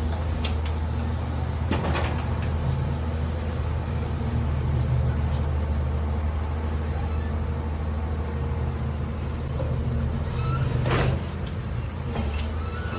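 Large diesel engine of heavy machinery running steadily with a deep hum, with two sharp metallic knocks, one about two seconds in and one near the end.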